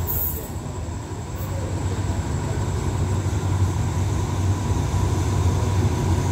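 Diesel locomotive of an approaching passenger train, its low engine rumble growing steadily louder as it nears the platform.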